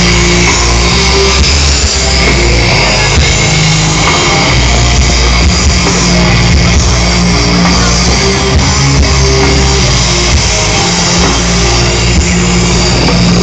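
Loud rock music with guitar and drum kit, steady throughout.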